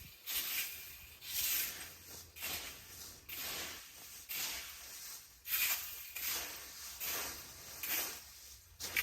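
Repeated scraping or swishing strokes, about one a second, each a short hiss with no pitch.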